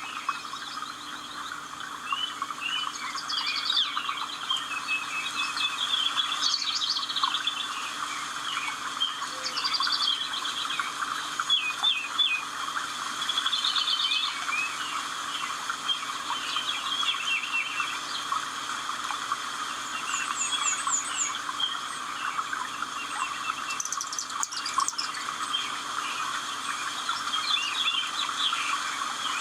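Several birds singing at once: overlapping chirps, trills and whistled phrases over a steady background buzz.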